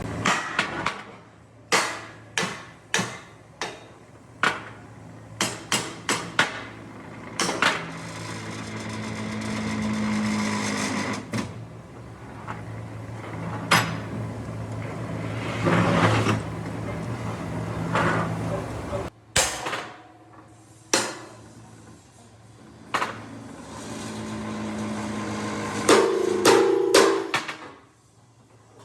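Hammer blows on metal, typical of panel beating on a truck body. The strikes come irregularly, some in quick runs of three or four, over a steady low hum.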